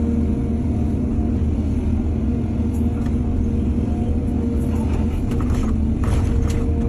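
Excavator's diesel engine running steadily under load, with a few short clanks and rattles about five to six and a half seconds in.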